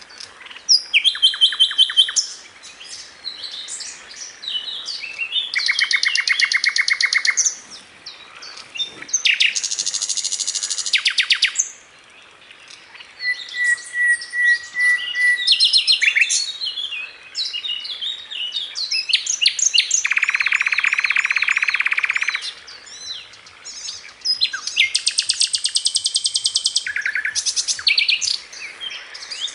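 Sikatan londo flycatcher singing hard: a long, varied string of rapid trills and rattling phrases, mixed with high chirps and short whistled notes, broken by brief pauses.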